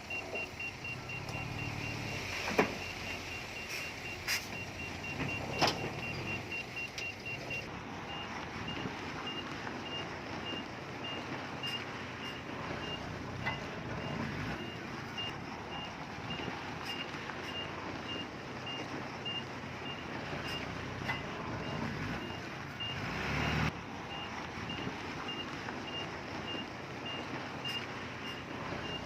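A heavy machine's reversing alarm beeps steadily over the running of a diesel engine, quickly at first and then more slowly from about seven seconds in. A few sharp knocks stand out in the first six seconds, and the engine swells briefly a little after two thirds of the way.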